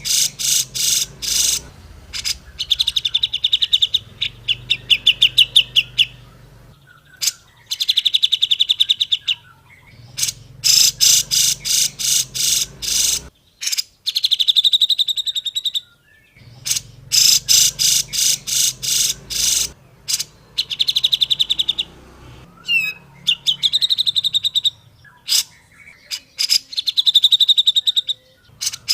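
Grey-cheeked bulbul (cucak jenggot) singing loudly in repeated phrases: a burst of rapid, harsh notes followed by a fast trill, each phrase a few seconds long with short pauses between.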